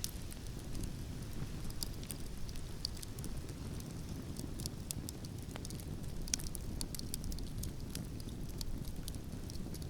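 Wood campfire crackling, with frequent small sharp pops at irregular times, over a steady low rumble of wind.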